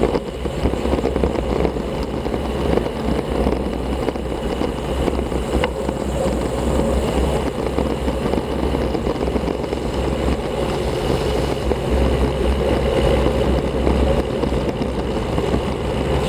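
Steady rush of wind and road noise on an action camera's microphone while riding a road bicycle at speed.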